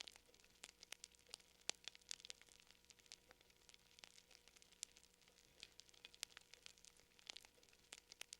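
Fire crackling faintly: irregular, quick snaps and pops, several a second, with no steady rhythm.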